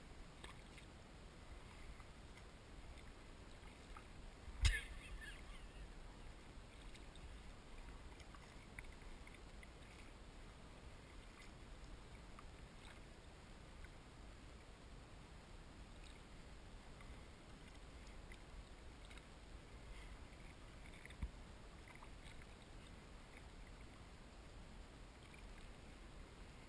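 Quiet kayak paddling: faint scattered splashes and drips over a low rumble. A sharp knock about five seconds in, and a smaller one about twenty-one seconds in.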